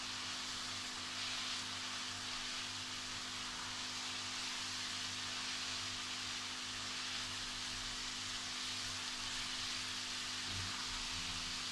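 Chicken and vegetables stir-frying in a nonstick wok: a steady, even sizzle.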